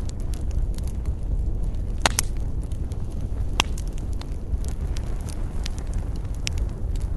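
Wood campfire crackling, with frequent small snaps and a few sharper pops, two close together about two seconds in and another about three and a half seconds in, over a steady low rumble.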